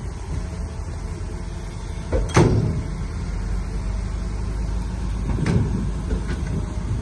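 Heavy earthmoving machinery's diesel engine running steadily at work, with two loud metallic clanks, one a little over two seconds in and another about three seconds later.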